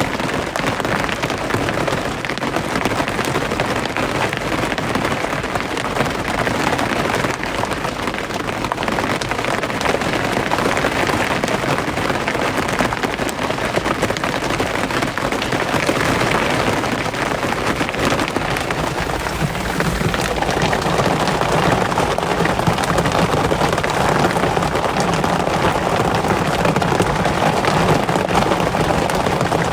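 Steady rain falling: a dense, even hiss of countless drops. About two-thirds of the way through it grows slightly louder and fuller in the low end.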